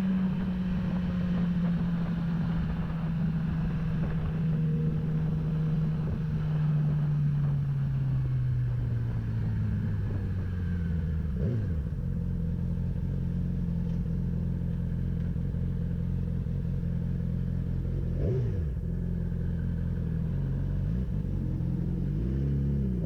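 Motorcycle engine heard from the rider's camera, its note falling slowly for about ten seconds as the bike slows, then running steady at lower revs. A few brief dips and rises in pitch break the steady note.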